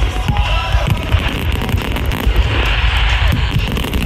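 Fireworks barrage: many aerial shells booming and crackling in rapid succession, with music playing alongside.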